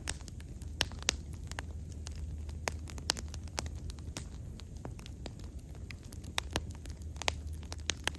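Bonfire crackling: irregular sharp pops and snaps of burning wood over a low, steady rumble of the flames.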